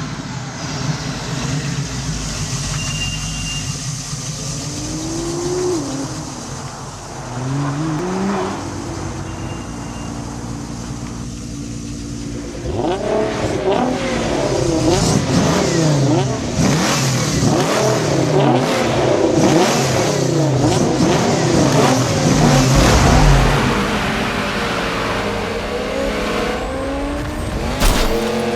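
Race car engines revving and running, with pitches sweeping up and down. At first there are only one or two, then from about halfway a whole pack sounds at once, louder. A sharp knock comes near the end.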